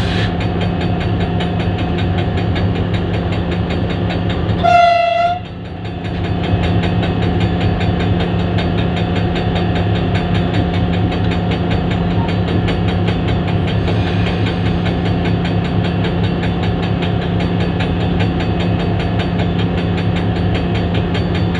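HGMU-30 diesel-electric locomotive's engine running steadily after start-up. About five seconds in, the locomotive horn gives one short blast.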